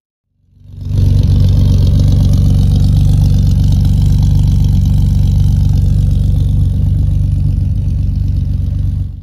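Jeep KJ's engine running at a steady idle, fading in about half a second in and fading out near the end.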